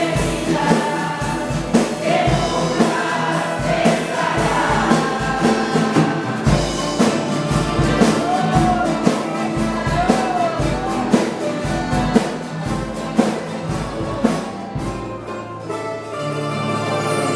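Worship music: a choir singing over instrumental accompaniment with a steady beat. Near the end the voices drop away, leaving held low instrumental notes.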